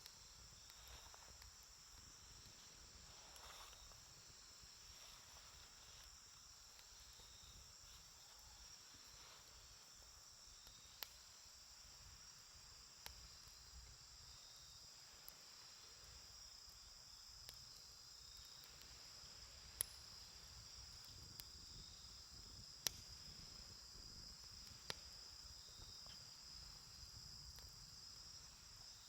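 A wood campfire burning quietly, giving a handful of sharp isolated pops. Under them runs a steady, high-pitched insect chorus, like crickets chirring. The whole is faint.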